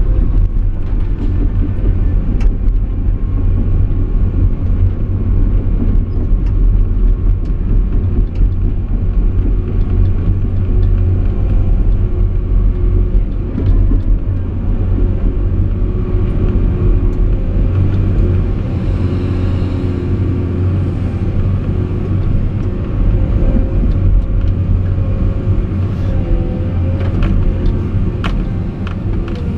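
Caterpillar 349E excavator's diesel engine running steadily with a heavy low rumble, its working pitch shifting slightly, and a few sharp metallic knocks near the end.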